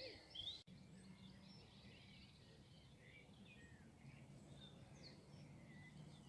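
Faint birdsong: scattered short chirps and whistled notes from small birds, over a low steady hum. The sound drops out for an instant about half a second in.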